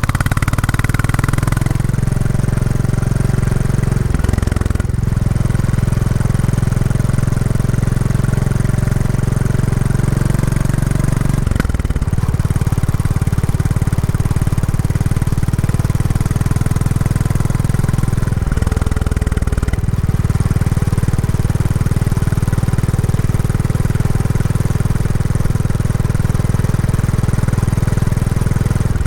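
Royal Enfield Classic 350's single-cylinder engine running through its stock exhaust under way, a steady beat that changes pitch briefly three times, as with gear changes or throttle changes. The bike is being run in.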